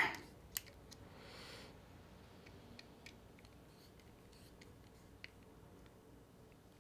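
Faint, scattered sharp clicks and a brief soft scrape of a small driver and metal knife parts as a screw on the titanium scales is tightened hard.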